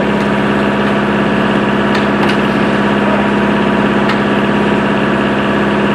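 Machinery running with a steady low hum, with a few faint clicks.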